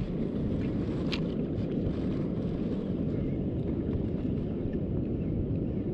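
Breeze buffeting the microphone: a steady low rumble, with a faint click about a second in.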